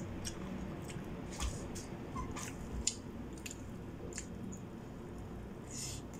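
Soft eating sounds: scattered wet mouth clicks and smacks of chewing, with fingers handling rice and food.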